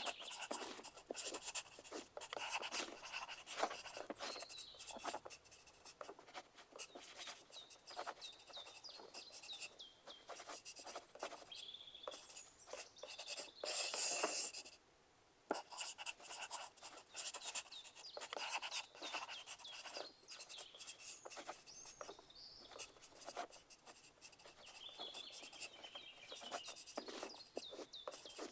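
Pencils writing on paper in an exam hall: a continuous, irregular run of short scratching strokes. About halfway through, the sound drops out abruptly to near silence for about a second, then resumes.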